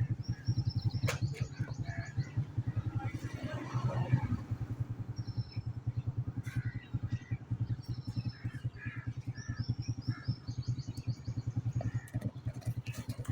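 An engine running steadily with a fast, even beat, with small birds chirping in short high series over it.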